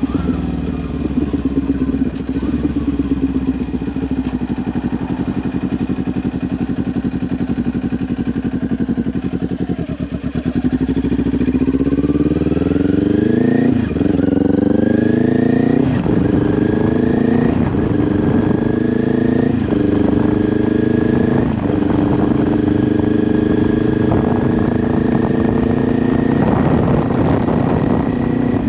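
2022 Kawasaki Ninja 400's parallel-twin engine running through an SC-Project exhaust while riding. For about ten seconds its pitch falls slowly, then it pulls away with the pitch climbing and dropping at each of several upshifts, before settling into a steady cruise.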